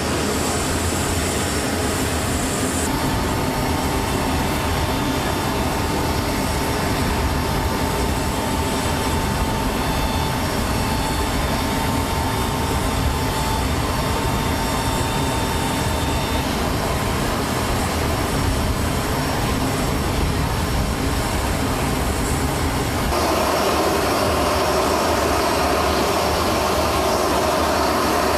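Steady aircraft engine drone on a flight line, with a faint high whine held through the middle stretch; the sound grows fuller near the end.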